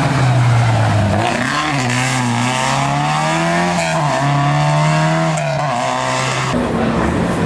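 Historic rally car engine at full throttle on a special stage, its pitch climbing and then dropping at each gear change, three or four shifts in a few seconds.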